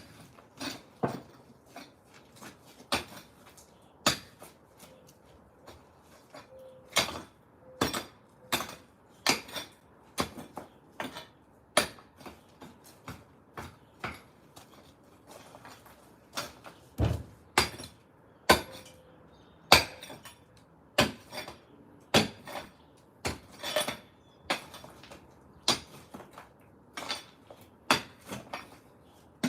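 A hand tool repeatedly striking concrete with sharp, clinking metallic blows, about one to two a second and uneven in strength, as concrete is broken up by hand.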